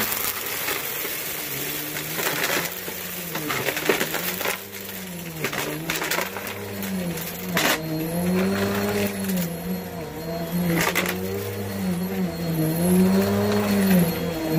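Vacuum cleaner running while pushed back and forth over a dirty floor; the motor pitch rises and falls with each stroke. Scattered clicks and crackles are grit and small debris being sucked up.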